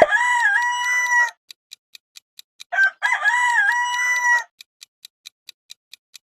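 Rooster crowing twice, each crow about a second and a half long, dipping in pitch and then holding. A steady ticking, about four ticks a second, runs between and after the crows.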